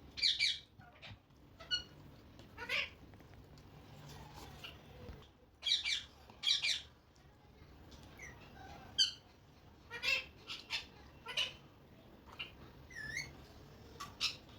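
Pet parrot giving a string of short, high squawks and chirps, the loudest just after the start and about six seconds in, with a rising chirp near the end.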